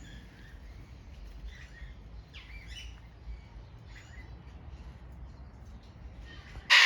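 Captive parrots chirping and calling in short separate calls every second or so. A sudden loud burst of noise breaks in at the very end.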